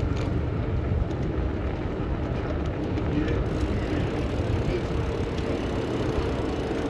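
Steady street-traffic noise heard from a bicycle riding through city traffic: a low rumble of engines with a faint hum.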